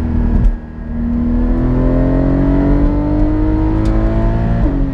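Porsche 718 Cayman GT4's 4.0-litre flat-six accelerating hard, heard from inside the cabin: after a brief dip about half a second in, the engine note climbs steadily for about three and a half seconds, then drops suddenly near the end as the PDK gearbox shifts up.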